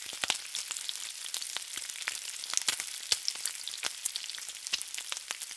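Food frying in hot oil: a steady sizzle with many sharp, irregular pops and crackles.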